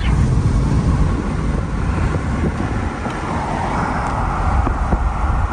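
Road noise inside a moving car: a steady low rumble of tyres and engine while driving.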